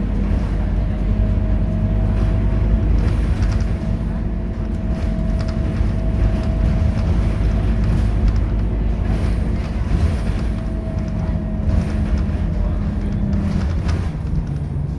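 Scania K230UB bus's diesel engine running steadily under way, a low drone with a faint steady whine above it.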